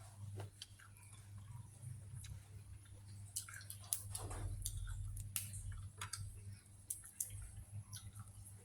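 A person chewing and smacking a mouthful of spicy pounded seafood salad with rice noodles, with irregular wet clicks and smacks, over a steady low hum.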